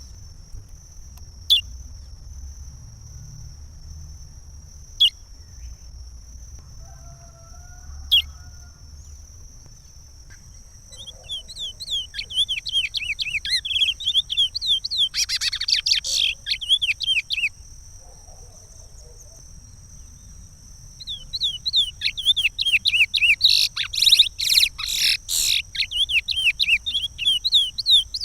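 Chestnut-bellied seed-finch (curió) singing the Pará regional song. It opens with a few single sharp chips spaced several seconds apart. Two long phrases of rapid, sweeping notes follow, one starting about 11 seconds in and one about 21 seconds in. A steady high tone runs underneath throughout.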